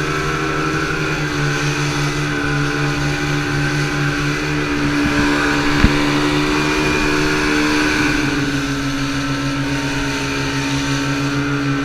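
Motorboat engine running at a steady cruising speed, its pitch holding even, with one short knock about six seconds in.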